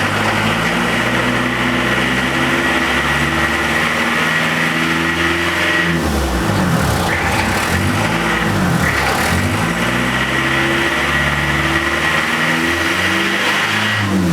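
Diesel car engine held at raised revs through a home-modified exhaust. A steady high whistle and hiss from the tailpipe accompany the revs. The revs drop and climb back twice, about six and eight and a half seconds in, and the whistle cuts out each time they fall.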